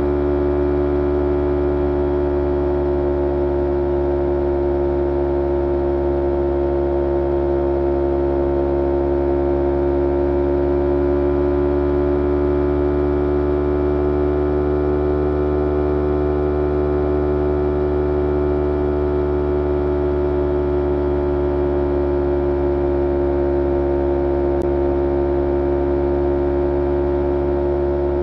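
2011 Kawasaki Ninja 250R SE parallel-twin engine running through a full Graves racing exhaust, holding nearly steady revs. The pitch rises slightly and settles back about midway.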